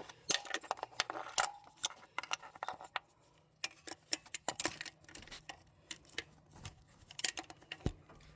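Hand tools and metal engine parts clicking and clinking in quick, irregular taps as fittings on the carburetor are worked loose.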